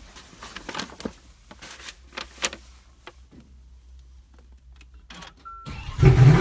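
Small clicks and knocks inside a Lamborghini's cabin, a short beep about five and a half seconds in, then the V12 engine cranks and fires, loud, right at the end.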